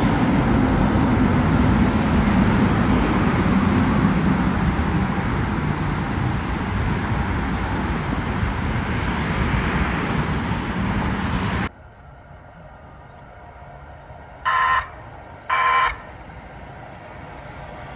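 A loud, steady rumble of a passing light rail train or traffic cuts off abruptly about two-thirds of the way through. Then a light rail train's horn gives two short toots about a second apart.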